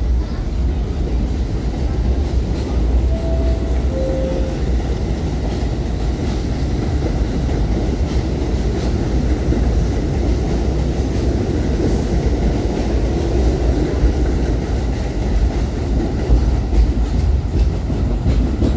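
New York City Subway train running through the station with a steady, loud rumble of wheels on rail. Two short tones sound about three and four seconds in.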